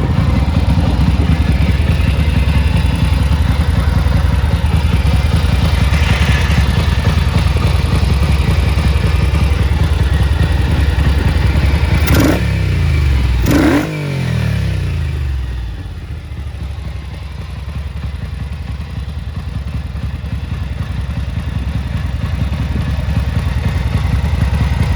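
1974 Ducati 750 SS air-cooled V-twin engine running on test. About halfway through the throttle is blipped twice in quick succession, the revs shooting up and falling back each time. It then settles to a quieter, lower idle that slowly picks up again.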